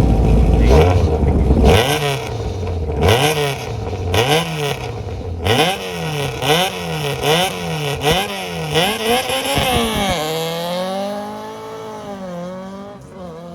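Rally car engine launching hard from a standstill. For several seconds its note climbs and drops sharply again and again, with sharp cracks between the rises. It then settles into a smoother, wavering note that fades as the car draws away.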